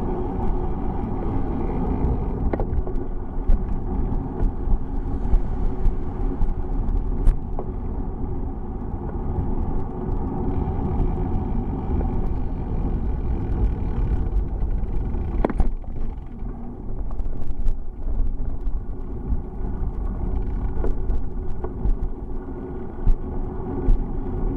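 Steady rumble of a bicycle moving along a road, tyre and wind noise, with scattered sharp clicks and rattles and one louder crack about two-thirds of the way through.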